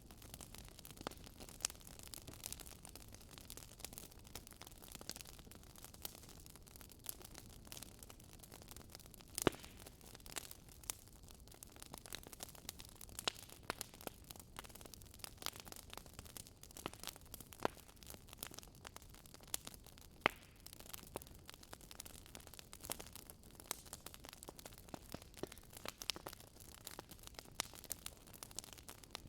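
Campfire burning and crackling: irregular sharp pops and snaps over a soft steady hiss, with a few louder snaps among them.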